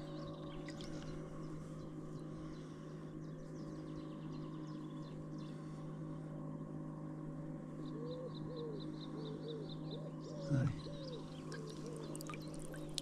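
Birds calling over a steady low hum: a run of low cooing calls and a quick series of high chirps about two-thirds of the way through.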